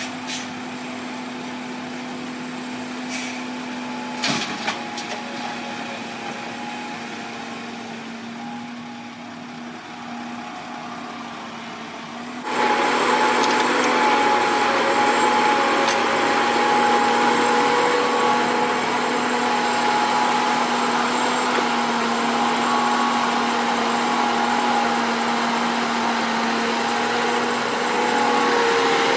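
Engine of a heavy construction machine running steadily, with a couple of short knocks early on. About twelve seconds in it abruptly gets louder, with a higher whine and hiss added, and holds there.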